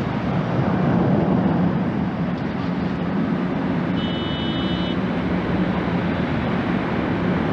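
Steady low rumble of an Airbus A320-family airliner's jet engines, without letting up. A brief high-pitched tone sounds about four seconds in.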